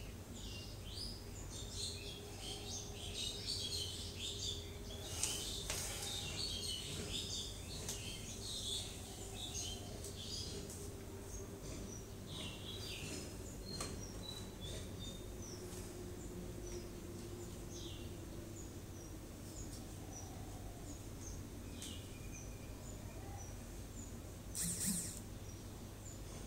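Small birds chirping, many short high calls, thickest in the first ten seconds and sparser after, over a steady low hum. A short rustle near the end.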